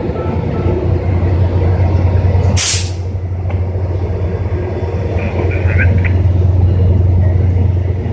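Diesel locomotive engine idling with a steady low hum. About two and a half seconds in comes one short, sharp burst of air from the train's air brakes.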